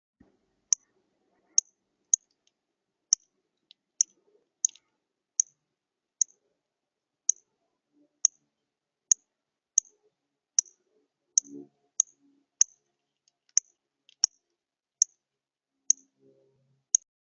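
A songbird giving about twenty short, sharp, high chip notes, spaced roughly one every second, with a faint low thump or two in between.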